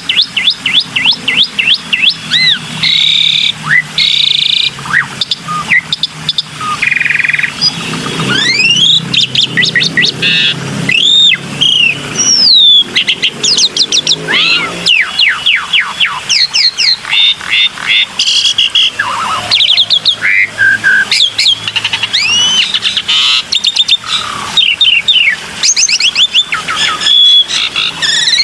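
Black-winged myna (jalak putih) singing a fast, unbroken run of whistles, chirps and trills, many notes sliding up or down in pitch. A low hum sits underneath the song in the middle part.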